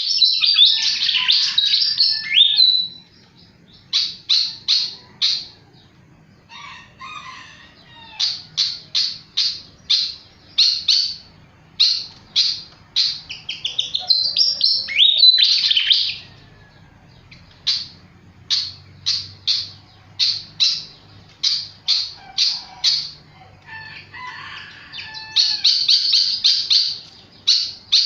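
A sikatan flycatcher singing very actively. Its song comes in quick runs of short, sharp, high notes, about two to three a second, broken by longer warbled phrases that glide up and down near the start, in the middle and near the end.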